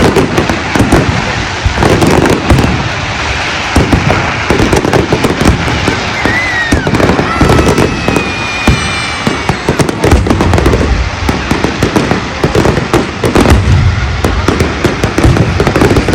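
Large fireworks display: a dense, continuous barrage of bangs and crackling shell bursts, with a few brief whistling tones over it.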